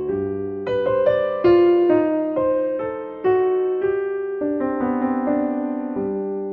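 Soft, slow solo piano music: single notes and chords struck every half second or so, each ringing and fading, with a held note through the last second.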